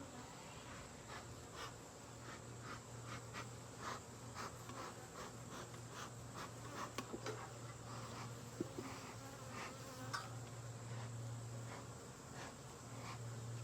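Honeybees buzzing around an open hive in a faint, steady hum, with scattered light clicks and scrapes throughout.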